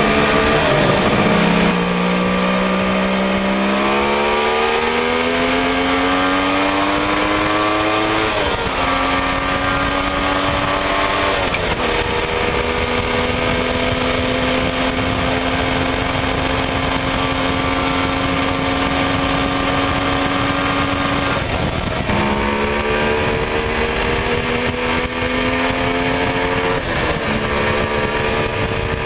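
Suzuki GT550 two-stroke triple motorcycle engine pulling up through the gears, its pitch rising steadily and dropping at each change about a third of the way in and again a few seconds later, then holding a steady cruise with two more dips in engine speed near the end. Wind rushes over the onboard microphone throughout.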